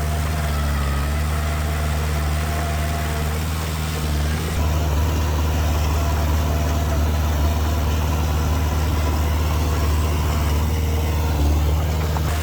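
Heavy diesel engine of earthmoving machinery running steadily with a deep low hum, getting a little louder about four and a half seconds in.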